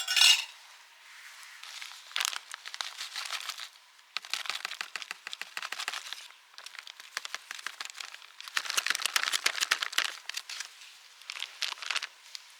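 Crinkling and crackling in several bursts of a second or two each, with a sharp click at the very start.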